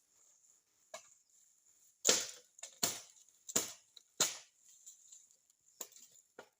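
A series of about seven irregular chopping strikes, the heaviest ones bunched in the middle, like a blade cutting into wood or a tough root.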